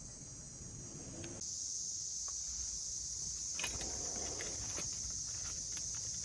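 Insects chirring steadily in a high, even band, growing louder about a second and a half in, with a few light clicks and a short knock and rustle of handling about halfway through.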